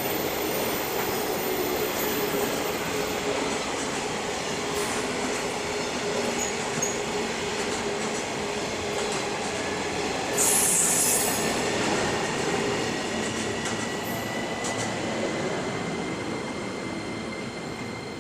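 Freight train of container-laden flat wagons running past on the rails with a steady rumble and clatter of wheels. A brief loud hiss comes about ten seconds in. The sound fades toward the end as the last wagons go by.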